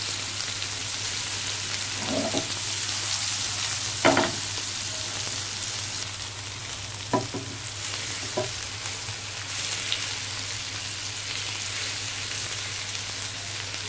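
Mutton meatballs sizzling steadily as they shallow-fry in oil over a low flame in a nonstick frying pan. A spatula knocks against the pan a few times as they are turned, the sharpest knock about four seconds in.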